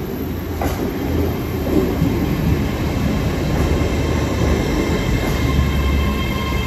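Great Western Railway Hitachi Intercity Express Train pulling slowly into a station platform: a low rumble of wheels on the track that grows a little louder. Several steady high whining tones join in about halfway through as it slows.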